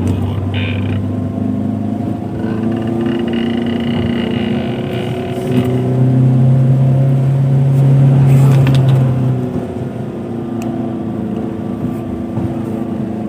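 Car engine running while driving, heard inside the cabin. Its note rises and grows louder about five seconds in, then drops back about four seconds later, as the car takes a climb.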